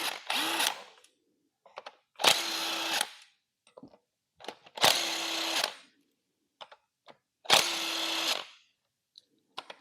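A power tool spinning out bolts one at a time: four short runs of under a second each, a couple of seconds apart, with faint clicks between. These are the bolts coming out of an LS3 V8's rear main seal area, ahead of a rear main seal change.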